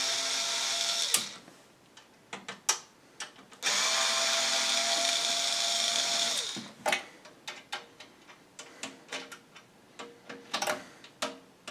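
Power drill with a driver bit backing out the screws of a computer power supply. The motor runs twice: once briefly, stopping about a second in, then for about three seconds and winding down as it stops. Small clicks and knocks of screws and metal follow.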